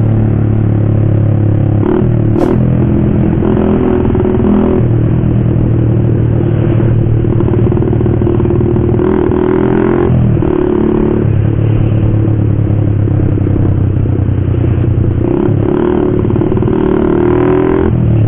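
Motorcycle fitted with an aftermarket racing exhaust, running loud and steady; its engine note dips and comes back up several times.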